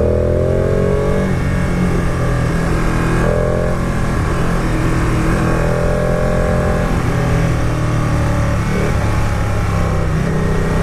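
Motorcycle engine running under way, its note shifting up and down a few times with the throttle, over a steady rush of wind and road noise.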